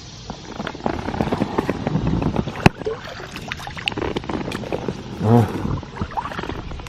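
Kayak paddle blades dipping and splashing unevenly in the water beside an inflatable kayak, with scattered small knocks and one sharp click about two and a half seconds in. The strokes are uneven: a beginner paddling with the blades the wrong way round.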